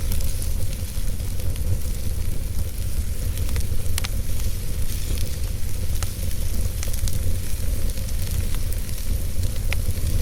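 Wood fire burning in a fireplace: a steady low rumble and hiss with scattered sharp crackles and pops, the clearest about four seconds in and near the end.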